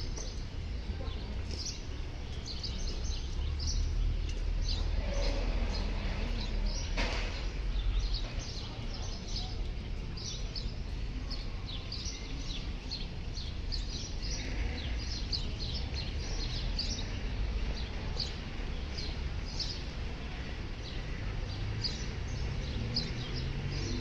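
Small birds chirping repeatedly in short calls, over a steady low rumble of outdoor background noise that swells for a few seconds near the start.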